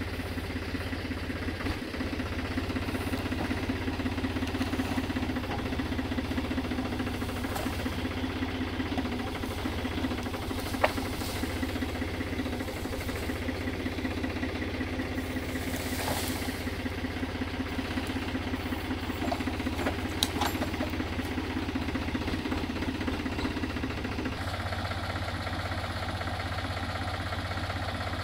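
An engine running steadily at a low, even speed, with a few sharp clicks; its tone changes about 24 seconds in.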